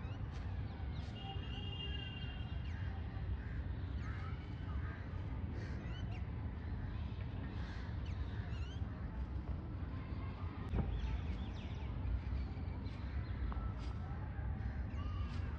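Many birds calling at once in short, overlapping chirps and caws, over a steady low rumble.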